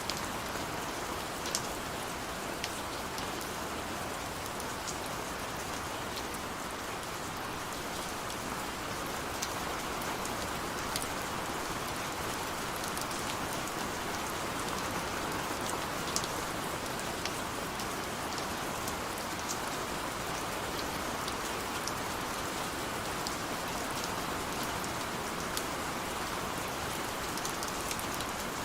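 Steady rain falling, an even hiss with scattered individual drops ticking sharply against a surface such as a window pane.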